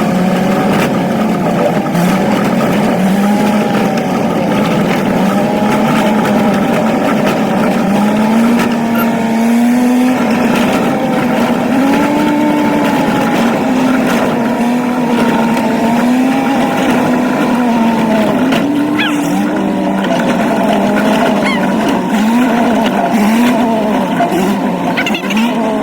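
Old truck's engine running under way, its pitch rising and falling again and again as the throttle is worked.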